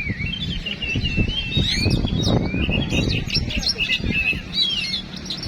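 Many caged songbirds singing at once in a bird-song contest, a dense tangle of quick chirps, trills and whistles, over a steady murmur of crowd noise.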